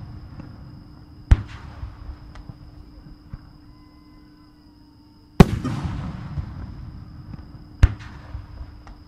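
Aerial firework shells bursting at a distance. There is a sharp bang about a second in, a louder one about five seconds in and another near eight seconds, each trailing off in a long echoing rumble, with a few smaller cracks between.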